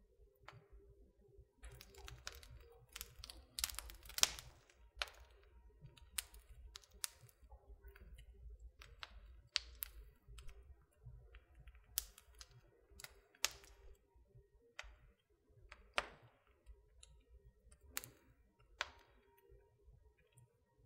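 Wood fire crackling in a fireplace: irregular sharp pops and snaps, a dense cluster with the loudest pop about four seconds in, over a low rumble.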